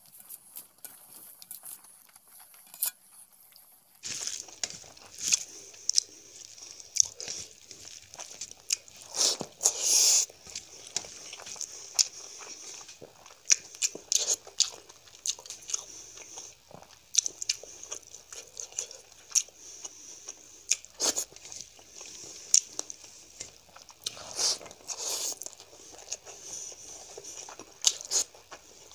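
Close-up chewing and crunching of hand-fed mouthfuls of rice and curry mixed with crunchy fried bits, with many sharp crackles and clicks starting about four seconds in. Fingers mix the food on a steel plate between mouthfuls.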